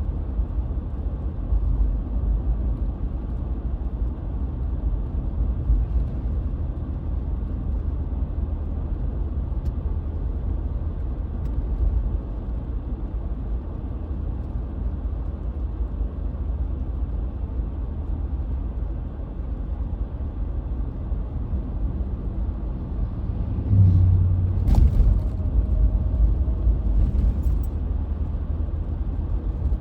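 Car driving, with a steady low road rumble. A little past two-thirds of the way through it gets louder, with a brief hum and a few short knocks.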